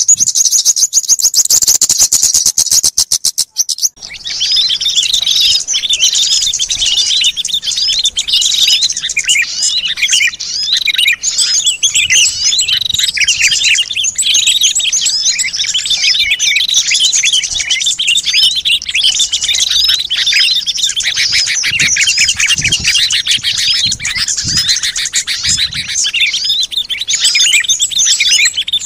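A dense chorus of small songbirds chirping and twittering over one another, played as a bird-lure call track. It opens with a fast, buzzy rattling trill for about four seconds, breaks off briefly, and then gives way to a busy tangle of overlapping high chirps and short slurred notes.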